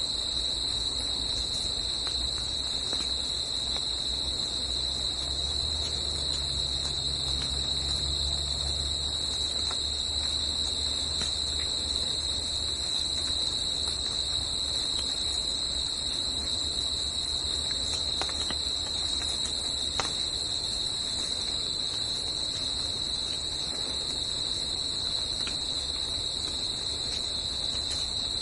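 Crickets trilling as one steady, unbroken high-pitched chorus. A faint low rumble underneath dies away after about ten seconds.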